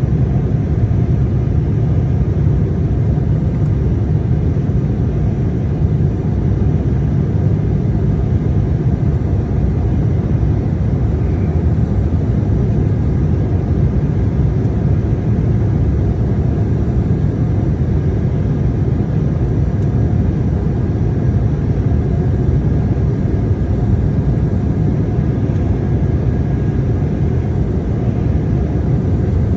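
Embraer E175's twin turbofan engines and rushing airflow heard inside the cabin as a loud, steady, low roar under full power during the takeoff climb.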